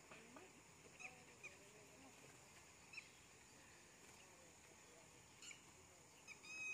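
Near silence outdoors: a few faint short bird chirps, then a louder bird call with several pitches together near the end, over a steady faint high-pitched hum.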